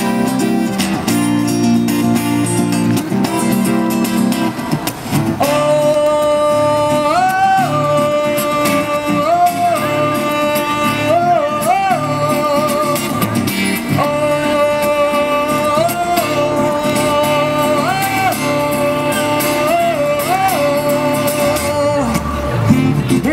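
Street musicians playing: acoustic guitar chords, joined about five seconds in by a long-held melody line that keeps stepping briefly up a note and back down.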